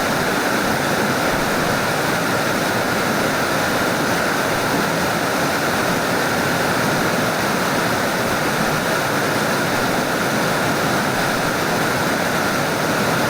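Mountain stream water rushing over rocks: a steady, even noise of flowing water that does not change.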